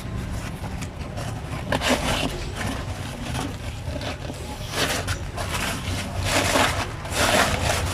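Several short scraping and rubbing noises over a steady low hum.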